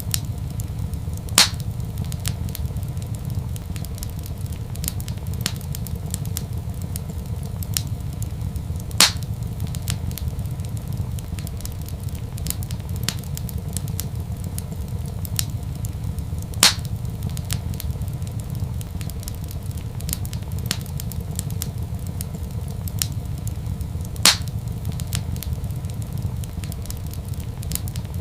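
Wood fire crackling in a fireplace: a steady low rumble under many small snaps, with four louder pops spaced evenly about seven and a half seconds apart.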